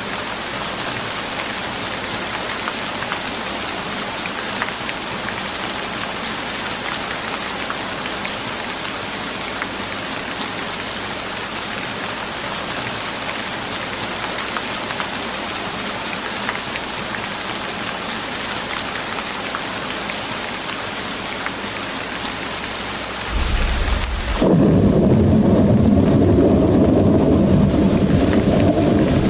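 Steady rain hiss. Near the end a loud, deep rumble of thunder cuts in abruptly and drowns out the higher rain sound.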